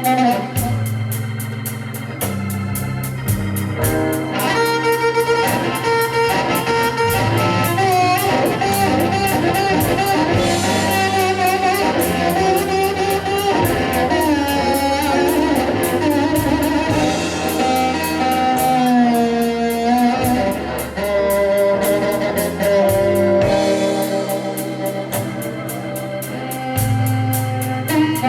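Live blues band playing an instrumental break: a lead guitar line with bent, sliding notes over bass, organ and drums with a steady cymbal beat.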